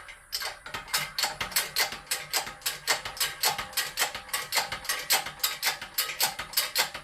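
Shop press working a new suspension bushing into a 1959 Chevy El Camino suspension part. It gives a rapid, even clicking, about five clicks a second, over a faint low hum.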